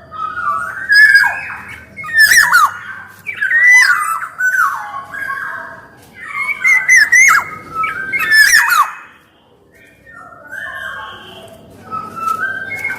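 Black-naped oriole (kepodang emas) calling over and over: swooping whistles mixed with harsh squawks, a call every second or so. The calls drop out briefly about nine seconds in, then come back softer.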